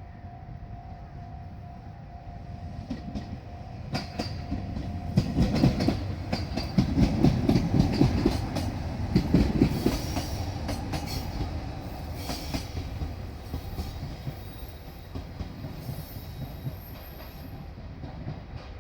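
Diesel train passing over a level crossing, its wheels clattering over the rail joints. The clatter builds from about four seconds in, is loudest for roughly five seconds, then fades.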